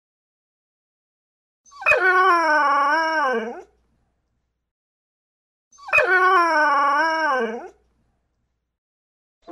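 An animal's drawn-out howling call, given twice with a pause between; each call lasts about two seconds, wavers in pitch and drops at the end.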